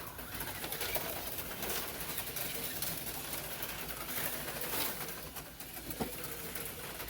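HO-scale slot cars running on a plastic track: a steady high whirring hiss, with scattered clicks and knocks, a sharper one about six seconds in.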